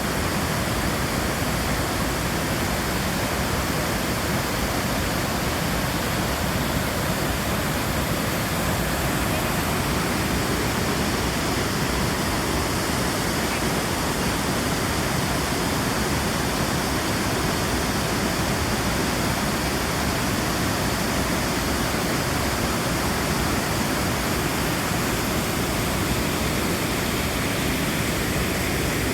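Torc Waterfall's falling water making a steady, even rush.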